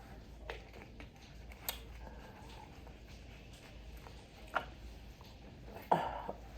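Close-miked eating sounds: a few soft, scattered chewing clicks and mouth smacks, with a louder smack just before the end.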